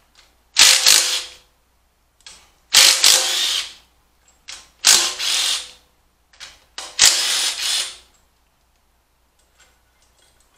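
A power tool runs out bolts in four bursts of about a second each, roughly two seconds apart, each starting with a short click. This is the unbolting before the clay is checked for piston-to-valve clearance.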